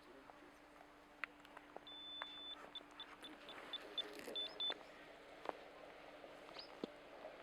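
Electronic beeping from a wood moisture meter: one longer beep, then a run of short beeps about four a second, with a few light clicks and knocks of handling.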